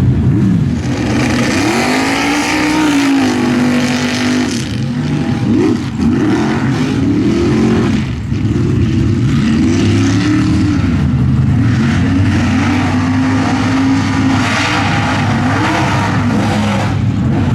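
Mud bog truck's engine revving hard, its pitch rising and falling again and again as the throttle is worked.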